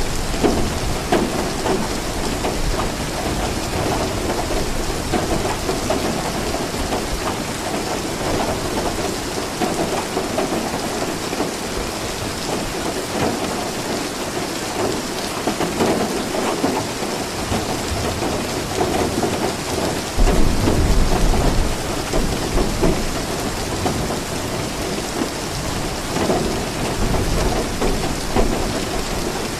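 Steady rainfall with low rolls of thunder. The thunder swells loudest about two-thirds of the way through.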